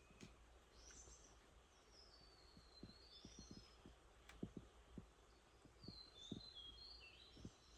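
Faint birdsong: three short, high warbling phrases, with scattered soft low taps under a steady low hum.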